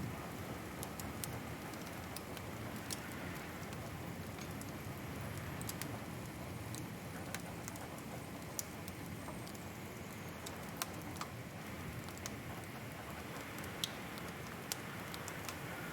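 Wood fire crackling in a fireplace: a steady low hiss and rumble with scattered sharp pops and snaps, a few louder ones in the second half.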